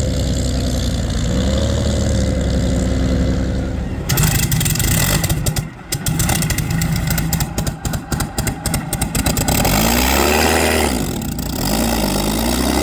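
Straight-piped Rolls-Royce Merlin V12 of a vintage hydroplane running steadily at low speed. About four seconds in it turns rough and crackling, with the loudness dropping in and out. It then settles back to a steady run with small rises and falls in pitch near the end.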